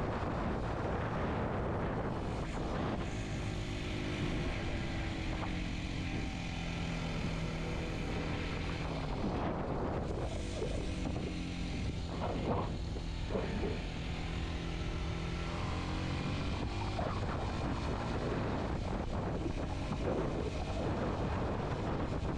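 Kawasaki Z125's small single-cylinder engine running under way, its note holding steady for stretches and changing briefly twice, with wind buffeting the microphone.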